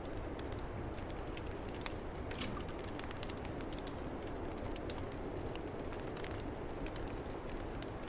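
Wood fire crackling in a fireplace, with frequent irregular pops and snaps, over a steady low rush of storm wind.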